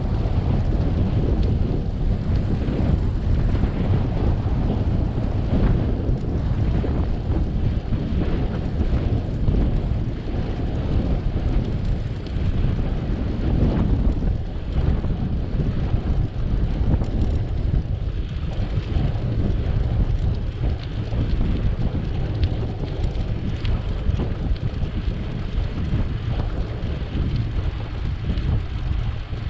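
Wind buffeting the microphone of a moving bicycle, a continuous uneven low rumble.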